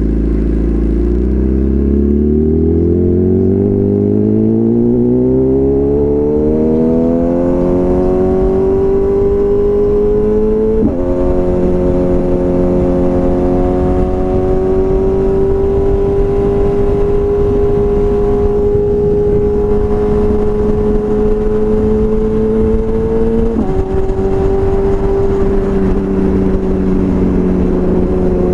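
BMW S1000RR inline-four with a full Akrapovič exhaust, pulling up through the revs as the bike accelerates. Its pitch drops sharply at an upshift about eleven seconds in, then holds nearly steady before a second upshift about five seconds before the end.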